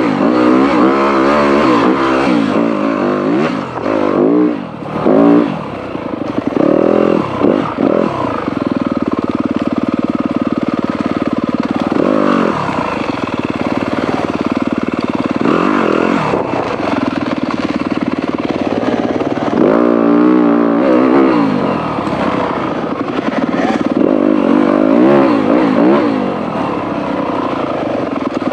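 Off-road dirt bike engine on a trail ride, the revs rising and falling again and again as the throttle is worked through tight single track, with a few stretches of steadier running.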